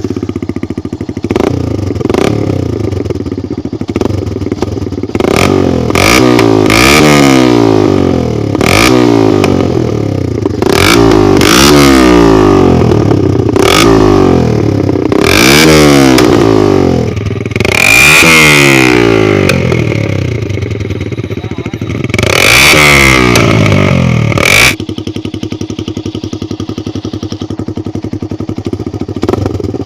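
Yamaha R15 v1's single-cylinder 150 cc four-stroke engine revved again and again through a loud exhaust, each rev rising and falling, with sharp pops and crackles at several of the peaks. About three-quarters of the way through it drops to a steady idle.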